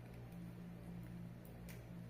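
A few faint clicks from a cockatiel chick pecking at its food, over a steady low hum.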